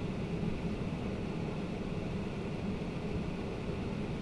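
Steady flight-deck noise of a Boeing 767-300ER taxiing after landing: a constant low hum with hiss over it.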